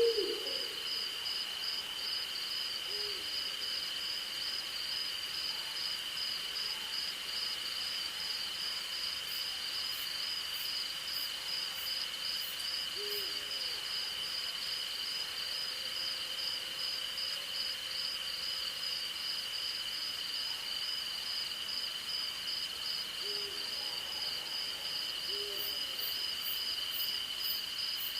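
Night forest chorus of crickets and other insects, two steady high trills, one of them pulsing, with an owl hooting a few short, low notes: once at the start, again a few seconds in, once in the middle and twice near the end. Two brief runs of faint, very high ticks come in partway through and near the end.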